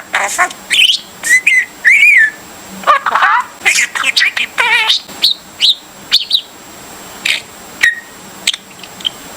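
Pet bird singing: a rapid run of short whistles, chirps and warbling notes that thins out to a few scattered chirps after about six seconds.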